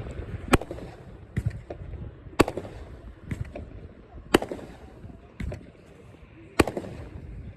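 A 57-shot 500-gram firework cake firing: sharp bangs about every one to two seconds, with smaller pops between them.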